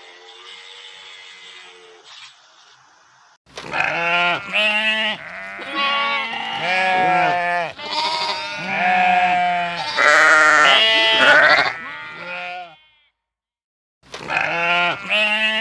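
A flock of sheep bleating, many wavering calls overlapping, starting a few seconds in. The calls break off briefly near the end, then start again.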